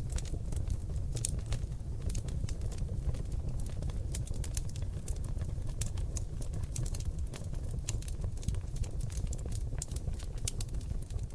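Seasoned oak logs burning in a fireplace: a steady low rumble of flame under many sharp, irregular crackles and pops, several a second.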